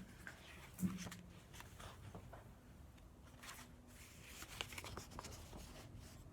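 Faint rustling and handling of a paperback picture book as its pages are opened and turned, with a soft thump about a second in.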